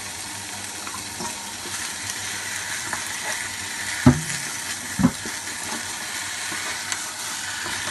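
Raw chicken pieces sizzling in a hot nonstick wok with onion, carrot and potato as a wooden spatula stirs them in. Two sharp knocks about a second apart, a little past the middle.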